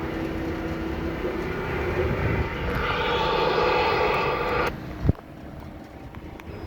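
RV engine revved under the accelerator, with an extremely loud noise from the engine compartment that swells and then cuts off suddenly about four and a half seconds in as the throttle is released, followed by one short knock; the owner guesses a loose belt.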